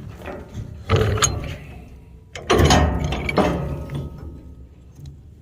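Metal clanking from the clutch mechanism of an old ground-drive stone picker being handled: two loud clanks, about a second in and about two and a half seconds in, each ringing on briefly, with lighter clinks between.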